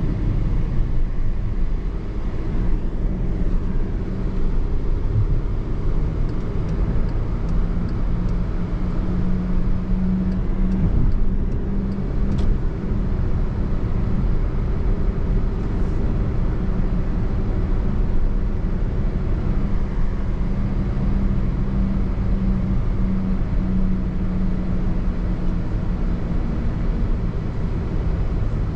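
Car driving along the road: steady engine and road noise with a low, even hum.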